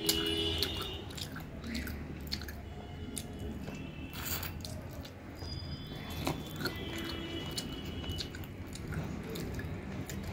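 A person chewing and biting a mouthful of rice and chicken curry, with many short wet mouth clicks and smacks.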